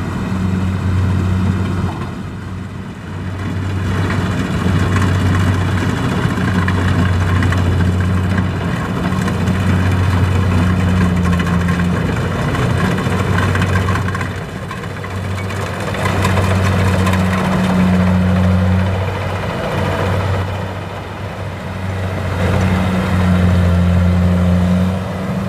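Diesel engine of a farm machine running, a steady low hum whose loudness swells and eases every few seconds.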